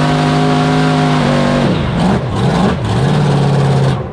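Monster truck engine held at high revs, then dropping and swinging down and up twice before steadying again. It cuts off suddenly near the end.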